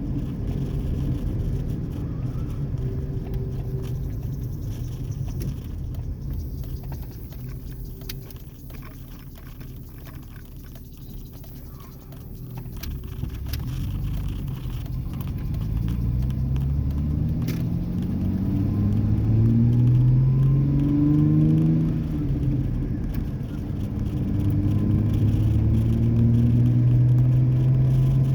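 2003 Ford Ranger's 4.0 L V6 with the muffler deleted and catalytic converters still on: a low exhaust rumble that eases off, then hard acceleration through the gears, the deep exhaust note climbing in pitch, dropping at each upshift and climbing again about three times.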